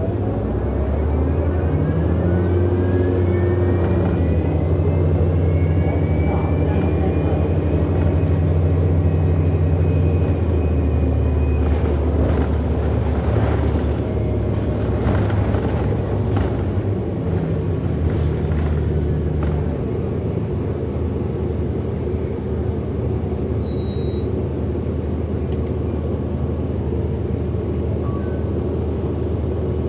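Inside a 2008 Orion NG hybrid-electric bus under way: the electric drive motor's whine rises in pitch as the bus gathers speed, holds, then fades about eleven seconds in, over a steady low drone. Rattles and knocks from the bus body follow while it rolls on. This is the weird motor sound of this bus.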